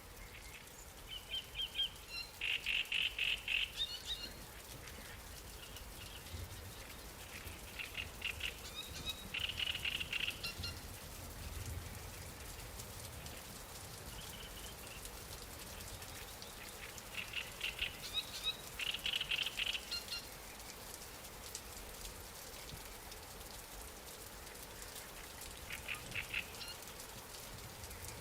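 Light rain falling steadily on water, with a bird calling in quick chattering runs of chirps four times, each run lasting two or three seconds.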